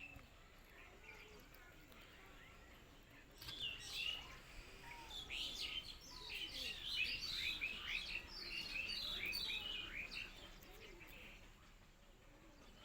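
Small birds chirping in a busy, overlapping chatter of short, quick, high notes, starting about a third of the way in and dying away near the end.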